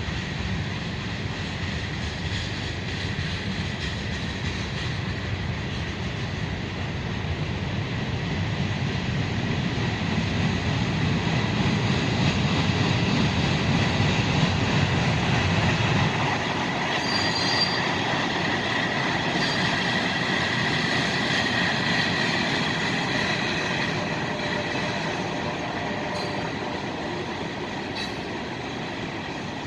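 Freight train rolling past: a low rumble of wheels and cars that builds to its loudest about halfway and then drops off sharply. After that come high-pitched steel wheel squeals and whines against the rail.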